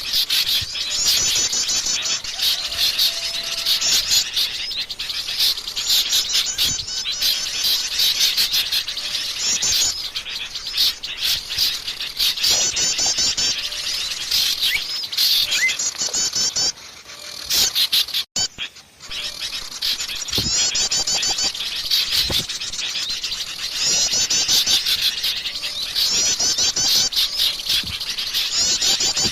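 Many small songbirds chattering and calling at once: bursts of rapid, high, trilled chirps recur every second or two, with a brief break a little past the middle. It is a bird-lure (pikat) mix of noisy calls.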